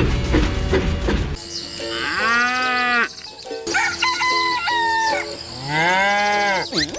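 Background music with long animal-like calls over it. Two calls rise and fall in pitch, and a stepped call comes between them.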